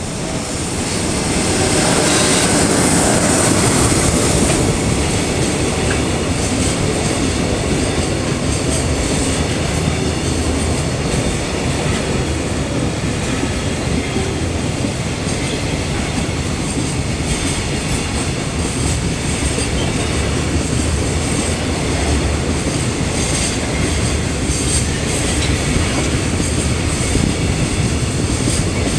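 JR Freight EF66 electric locomotive passing close at slow restricted speed. It is loudest in the first few seconds, then gives way to the steady rumble and clatter of a long string of container wagons rolling by.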